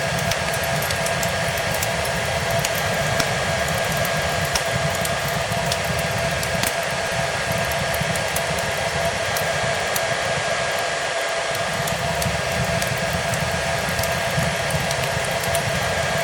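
Hair dryer running steadily, a constant blowing rush with a whining motor tone, layered with a wood fire in a fireplace giving off frequent small crackles and pops.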